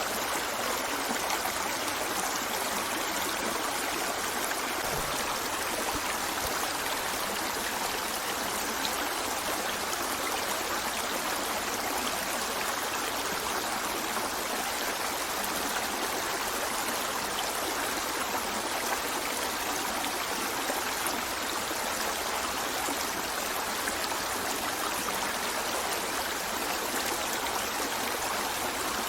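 River water flowing over rocks, a steady rushing and trickling without change.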